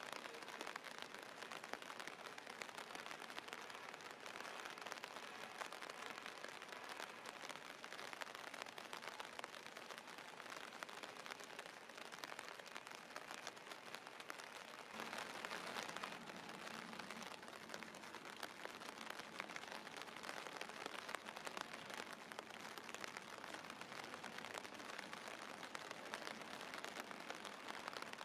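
Steady rain falling, a fine hiss of many small drop ticks. About halfway through it grows a little louder and a faint low hum joins it.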